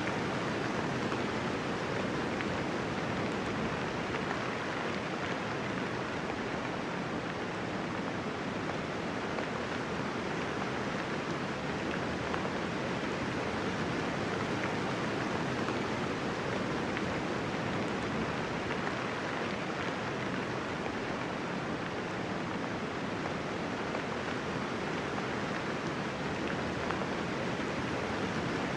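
Steady, even rain falling, a continuous hiss of raindrops with no thunder.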